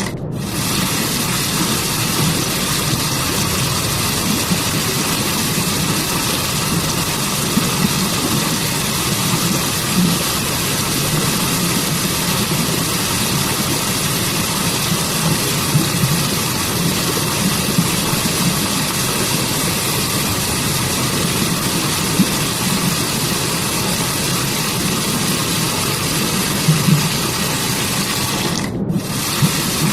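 Rushing water of a waterfall, a steady, even roar of falling and splashing water with no pauses, briefly thinning in its high hiss about a second before the end.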